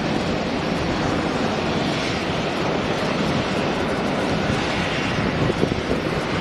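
Jet engines of an Airbus A380, a four-engined airliner, giving a steady, even rushing noise.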